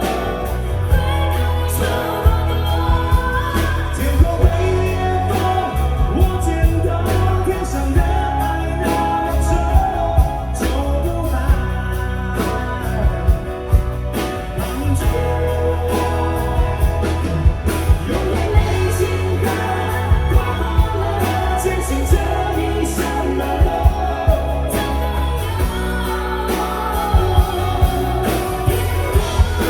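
Live pop-rock band playing a ballad, with steady drums and bass under a gliding vocal and lead melody.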